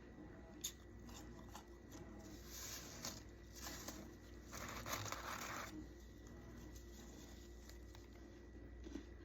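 Freezer frost being scraped and crunched: a few short crunchy scrapes, the longest about five seconds in, with a sharp click near the start and another near the end, over a faint steady hum.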